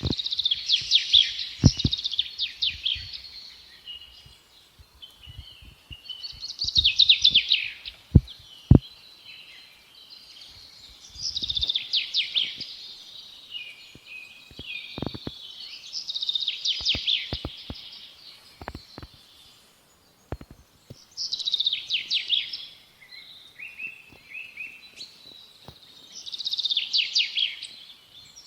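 A small songbird singing: about six phrases of rapid, high twittering notes, each lasting about two seconds and coming roughly every five seconds. Scattered sharp clicks fall between the phrases, two of them loud a little after eight seconds in.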